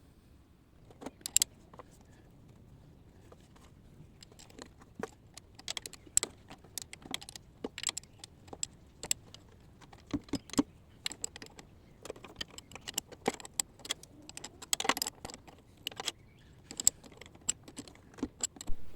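Irregular metallic clicks and clinks of a spanner working loose the oil pump bolts inside a 1965 Ford Thunderbird's oil pan, a few louder clicks about a second in and quicker runs of them toward the end.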